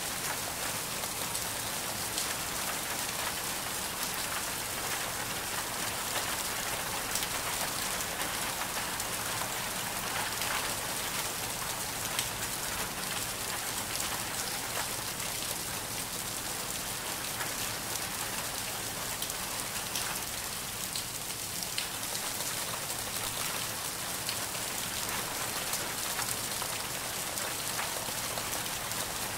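Ambient rain recording: steady rain falling, an even hiss with a light patter of individual drops.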